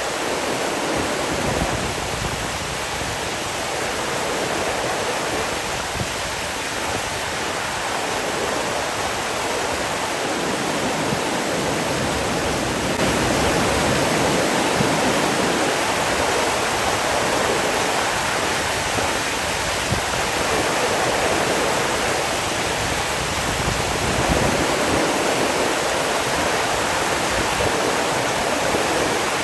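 Water rushing steadily, a dense unbroken noise that swells and eases slightly in its low rumble every several seconds.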